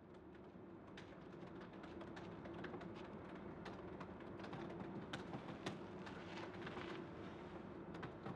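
Typing on a computer keyboard: faint, irregular key clicks, several a second, over a steady low hum.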